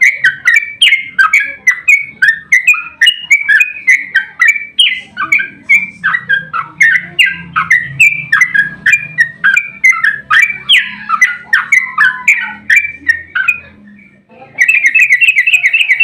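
Yellow-vented bulbul (trucuk) singing a long, rapid run of loud chattering notes, about three a second. It breaks off briefly near the end, then resumes in a faster, denser trill.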